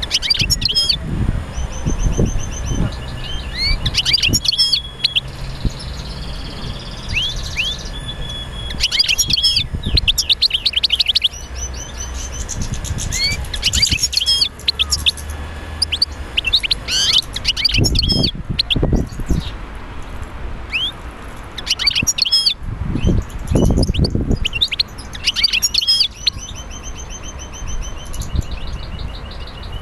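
Birds chirping and singing: quick runs of high chirps and trills repeat every few seconds, with a couple of low thuds in between.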